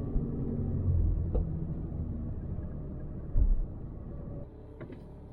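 Jeep XJ Cherokee cabin while driving: steady low road and drivetrain rumble, with a short, loud, low thump about three and a half seconds in.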